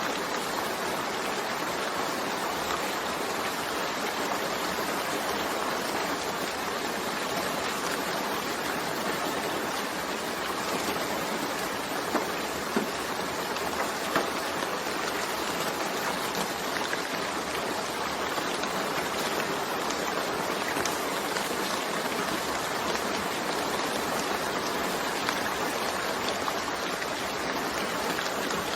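Steady rain falling, a dense even hiss with faint individual drop ticks and a few slightly louder drops about halfway through.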